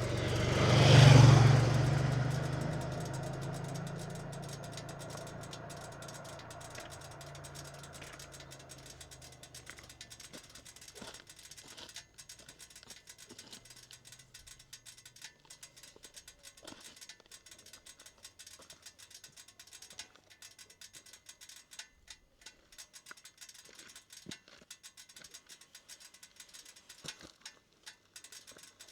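Honda GB350S single-cylinder engine revving up sharply, then its sound fading away over several seconds, leaving only faint, irregular ticks.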